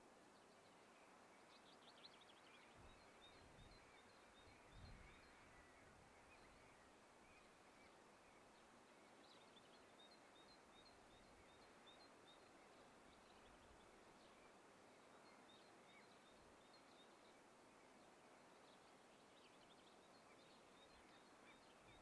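Near silence: faint outdoor ambience with runs of rapid, high chirps from small birds over a soft steady hiss, and a faint low rumble about five seconds in.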